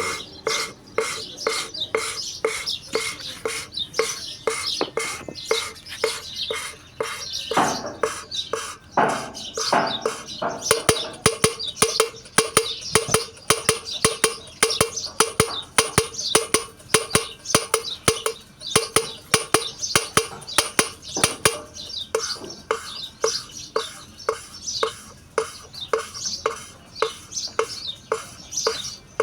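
Valve of a Volvo FMX 400 cylinder head being lapped into its seat with emery grinding compound. Rhythmic back-and-forth scraping, about three strokes a second, with a short squeak on each stroke.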